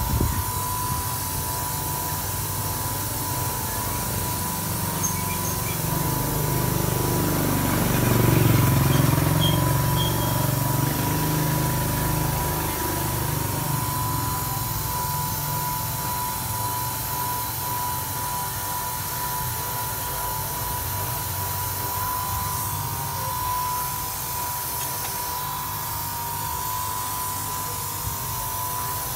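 Motorcycle engine running steadily with its clutch cover off and the clutch assembly exposed. Its revs swell and rise in pitch about seven to ten seconds in, then settle back.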